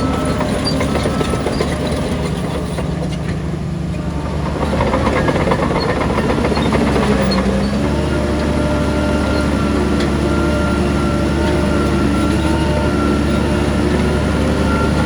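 Diesel engine of heavy earthmoving machinery running steadily under work, growing louder about four and a half seconds in.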